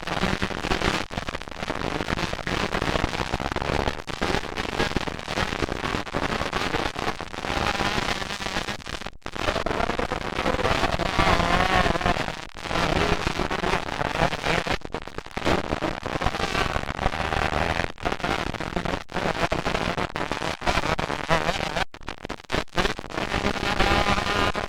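Two-stroke motocross bikes racing, their engines crackling as the pitch rises and falls with revving and passing. The sound breaks off suddenly for an instant a few times.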